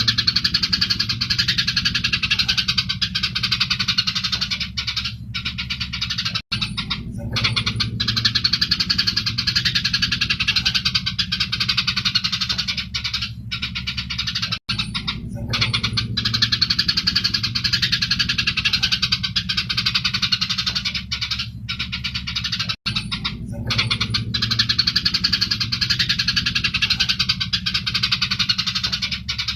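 Eurasian tree sparrows chattering and chirping densely and without pause in an aggressive fighting call, over a steady low hum. The same stretch of recording loops about every eight seconds, with a brief cut between repeats.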